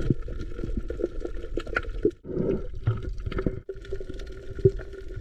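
Wet, squishy eating sounds of sea grapes (lato) being chewed close to the microphone, with many short, irregular clicks and pops.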